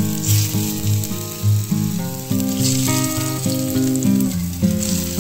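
Instrumental background music with a pulsing bass and a stepping melody, over the fine sizzle of filled wheat-dough rolls shallow-frying in oil in a nonstick pan.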